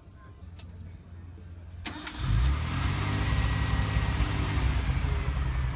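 Nissan S20 2.0-litre twin-cam inline-six with three carburettors starting: it catches about two seconds in and settles into a steady idle.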